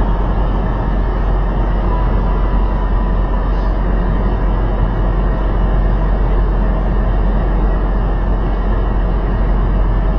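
Steady, deep rumble of a semi truck's engine and road noise at highway speed, heard from inside the cab.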